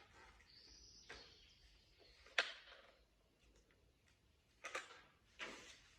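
A few light clicks and knocks, the sharpest about two and a half seconds in, with soft rustling between them: plastic toy parts and packaging being handled.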